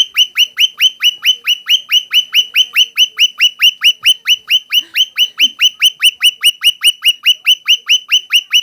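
Pet bird calling in a rapid, very regular series of short chirps, about five a second, each falling sharply in pitch, kept up without a break.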